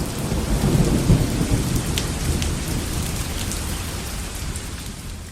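Heavy rain falling with a low rumble of thunder, loudest about a second in and slowly easing off toward the end.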